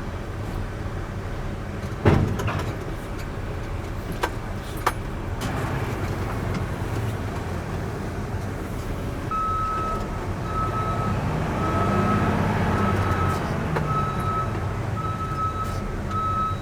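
Diesel semi truck engine idling steadily, with a couple of sharp knocks early on. About nine seconds in, a reversing alarm starts beeping, a high single tone going on and off at an even pace.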